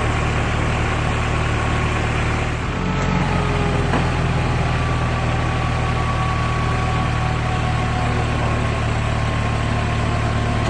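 A heavy vehicle's engine idling steadily with a low hum; its tone shifts slightly about three seconds in.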